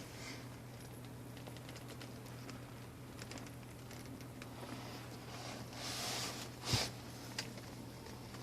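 Quiet pickup-cab ambience: a low steady hum with faint clicks and rustles of handling, a soft rustle about six seconds in and one sharp click just before seven seconds.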